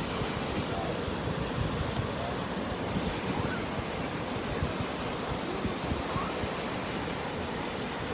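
Ocean surf washing steadily onto a sandy beach, with wind buffeting the microphone in low gusts.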